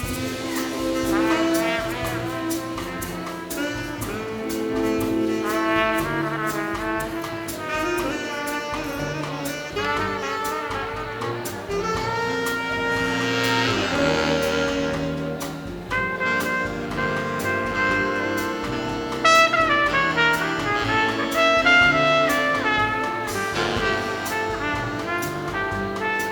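Big band playing an instrumental bossa nova passage, with saxophones, trumpets and trombones voiced together over a steady light drum beat and bass.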